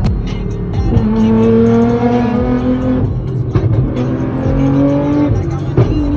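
Sports car engine accelerating hard through the gears, its pitch climbing steadily and then dropping at each upshift, with shifts at about one second in, three seconds in and near the end.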